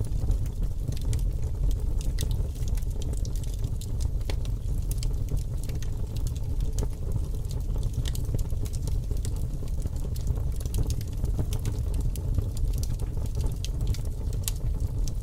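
Fire crackling: a steady low rumble with frequent small, sharp pops and crackles scattered throughout.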